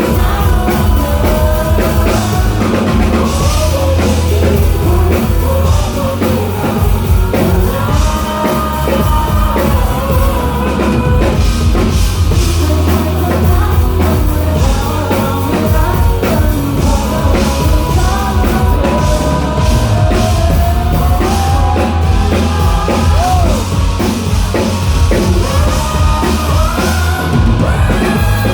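Live rock band playing loud, with a singing voice over drum kit, bass and guitars.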